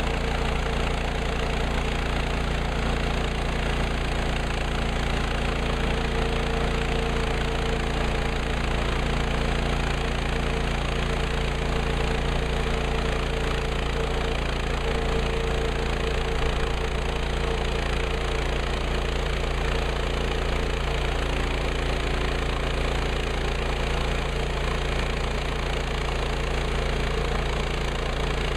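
Gasoline engine of a Woodland Mills HM130MAX portable bandsaw sawmill running steadily, with a constant mid-pitched drone.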